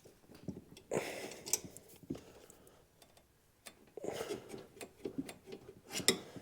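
Scattered metallic clicks, taps and knocks of hand tools and parts being handled during suspension work, with a short pause in the middle and a busier cluster of knocks near the end.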